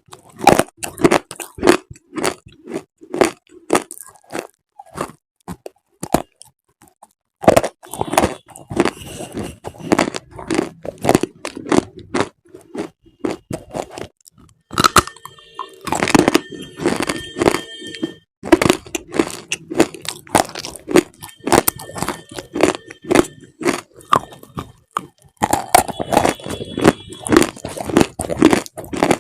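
Repeated crisp crunching of something brittle, in quick runs of many sharp crunches with short pauses about four and twelve seconds in. A faint high squeak sits under the crunches in places.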